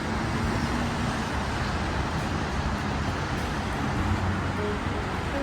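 Steady city traffic noise: an even wash of passing cars.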